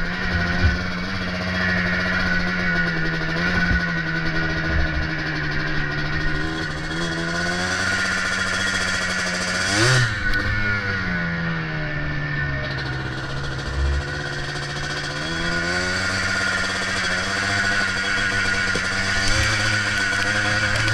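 Yamaha Blaster ATV's two-stroke single-cylinder engine running under load, its pitch rising and falling with the throttle, with one quick sharp rev about halfway through.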